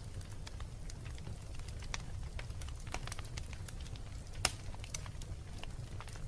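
Wood fire in a fireplace crackling, with scattered sharp pops over a steady low rumble of the flames. One louder pop comes about two-thirds of the way through.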